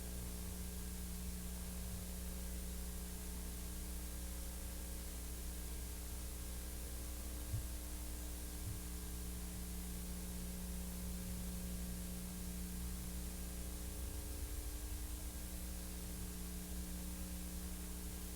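Steady electrical hum with hiss underneath, unchanging, with one faint tick about seven seconds in: the noise floor of an otherwise silent film transfer.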